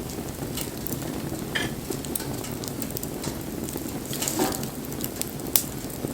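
Wood fire burning: a steady low noise of flames with scattered sharp crackles and pops from the burning wood, the sharpest snap near the end.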